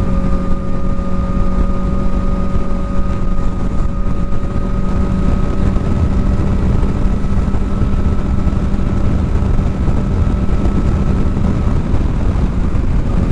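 Kawasaki ZX-4R's inline-four engine with a new aftermarket exhaust, running at a steady pitch while cruising, with wind rushing over the microphone.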